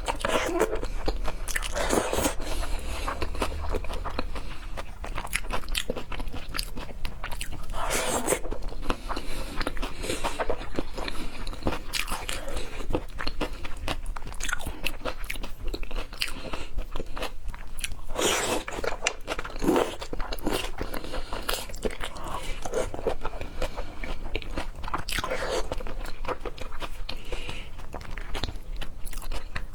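Close-miked eating of seafood: steady, irregular chewing with crunchy bites and wet mouth clicks, a few louder bites standing out.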